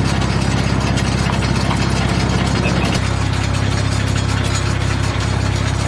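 A vehicle engine idling steadily, with a fast, even rattle; its tone shifts slightly about three seconds in.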